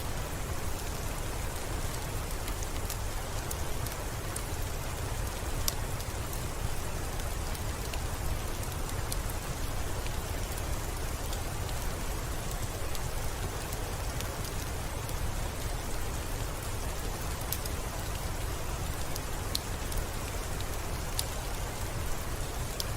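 Steady rain falling: an even hiss over a low rumble, with scattered sharp ticks.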